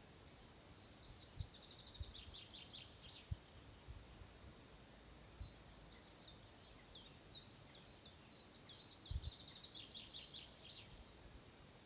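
A small songbird singing two trilled song phrases, the second one longer, over quiet open-air background with a few faint low thumps.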